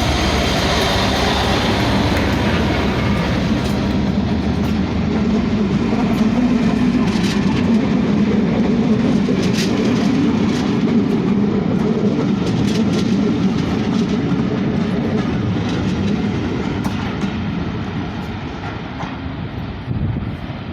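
Class 57 diesel-electric locomotive running through, its two-stroke EMD engine giving a steady low rumble, with the wheels clicking over rail joints. It fades away over the last few seconds.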